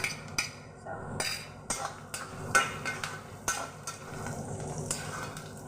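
Metal spatula stirring frying onions and garlic paste in oil in a wok, scraping and knocking irregularly against the pan over a low sizzle.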